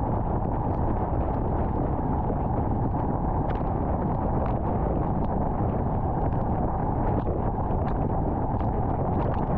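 A car driving on a highway: steady road and tyre noise with no change in speed, and scattered light ticks at irregular moments.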